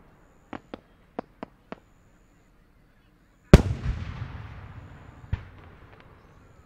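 Japanese aerial firework shells bursting: a quick run of five sharp cracks, then one very loud bang about three and a half seconds in that echoes away for a few seconds, with a smaller bang under its tail.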